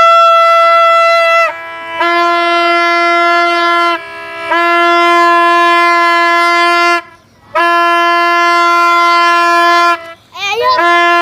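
A horn-like wind instrument blown loudly in long held notes of about two to three seconds each, with short breaks between them. The first note is an octave higher than the rest, and a quick upward slide leads into the last note near the end.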